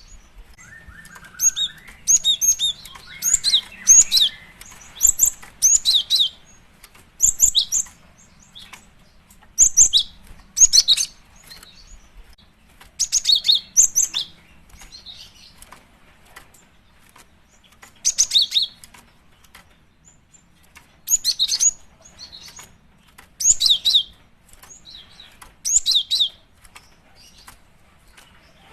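Female cinereous tit (gelatik batu) calling: short bursts of high, quick chirps repeated every second or two. This is the call a female uses to draw a male.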